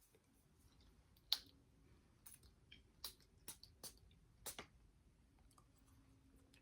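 Near silence in a small room, broken by a handful of faint, sharp clicks: one about a second and a half in, then several more between about three and four and a half seconds.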